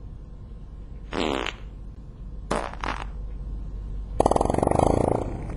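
Three fart noises over a low hum: a short one about a second in, a brief double one a little later, and a longer, louder buzzing one near the end.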